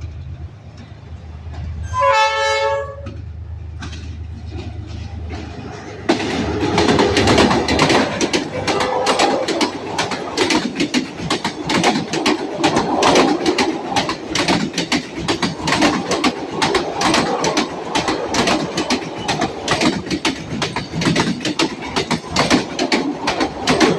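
A train horn blasts once, briefly, about two seconds in, over a low engine rumble. From about six seconds in a train passes close by with a loud, rapid clatter of wheels over the rail joints.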